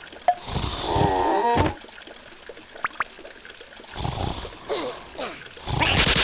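Cartoon sound effects with wordless character vocalizations: a wobbling, warbling cry, short squeaks and clicks, and a loud noisy burst near the end.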